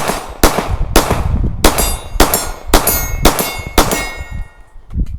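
Gunfire at a range, about eight shots in quick succession at roughly two a second, with a steel target clanging and ringing on the hits in the middle of the string. The shooting stops about four seconds in.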